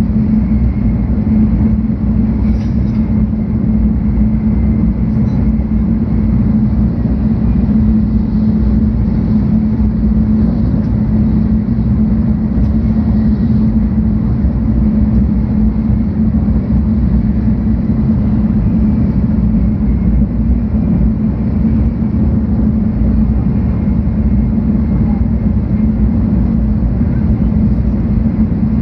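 Steady low rumble of a 700 Series Shinkansen train running, heard inside the passenger cabin, with a constant low hum under it.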